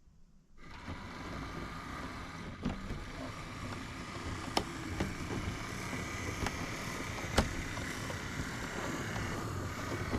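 Model railway train running along the track: a steady small-motor hum and wheel noise that starts about half a second in, with a few sharp clicks.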